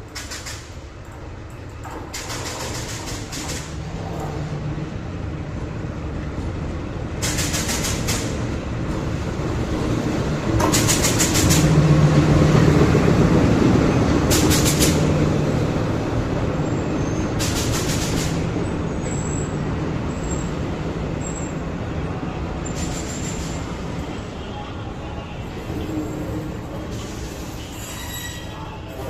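A train passing: it grows louder to its loudest about twelve seconds in, then fades. A steady low engine drone runs under it, broken by several separate bursts of high hiss.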